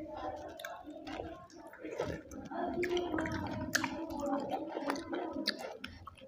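A person chewing a mouthful of rice and curry close to the microphone, with frequent short wet mouth clicks and smacks.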